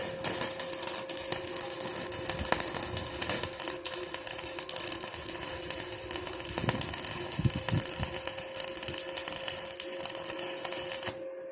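Stick (MMA) arc welding with the Iskra Profi MMA-350 inverter: a dense, steady crackle of the burning electrode arc that breaks off abruptly near the end. A steady hum continues under it.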